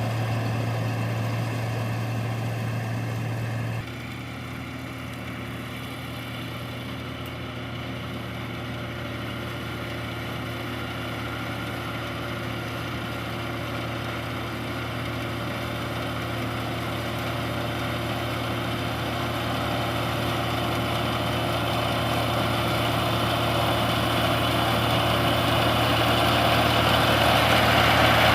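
Rice combine harvester's diesel engine running steadily with a low hum. The level drops abruptly about four seconds in, then grows steadily louder, as if the machine is drawing closer.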